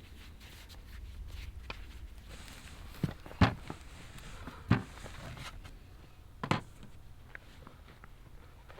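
A few sharp knocks over a low steady rumble: four short hits, two close together about three seconds in and the loudest of these second, then one near five seconds and one past six and a half seconds.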